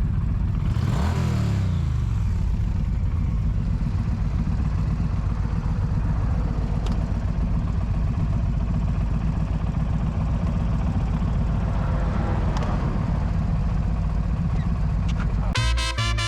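Motorcycle engine running at speed with heavy wind noise, and a falling engine note about a second in. Brassy swing music cuts in near the end.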